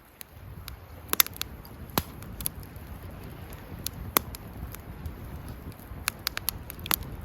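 Wood fire crackling, with irregular sharp pops over a low, steady rumble of burning.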